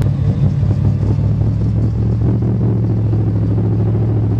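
Pickup truck engine running steadily under load, a deep even drone, while a swamped truck is being pulled out of the water.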